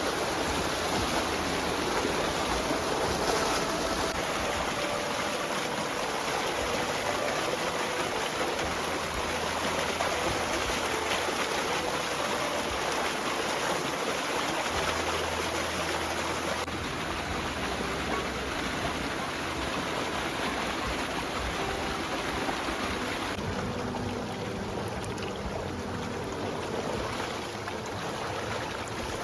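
Steady rushing of a mountain stream, water running fast over rocks, shifting slightly in tone about 17 and 23 seconds in.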